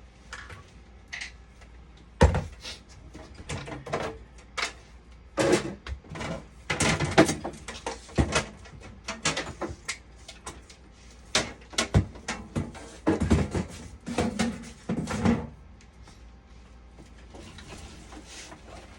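Irregular knocks and clatter of hard objects being handled and set down, dozens of separate hits over about thirteen seconds, then a quieter stretch near the end.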